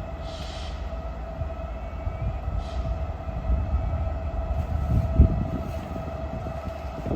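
Train at a station platform: a low rumble with a steady whine, two short hisses in the first few seconds, and a thump about five seconds in.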